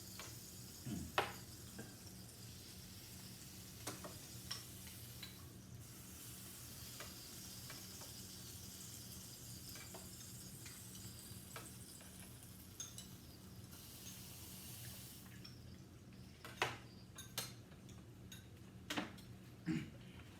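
Hot pot broth simmering with a steady hiss, with scattered clicks of utensils against the pot and bowls. The hiss drops away about fifteen seconds in.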